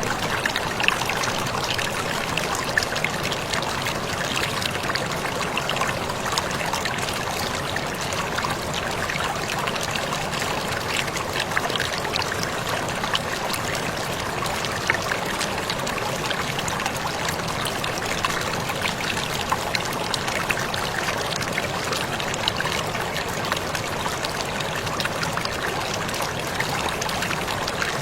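Waterfall splashing steadily, its even rush dotted with many small splashes and drips.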